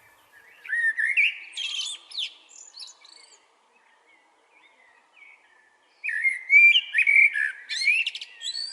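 Blackbird singing: two warbled phrases of quick gliding notes, each ending in higher twittering, the first in the opening few seconds and the second from about six seconds in.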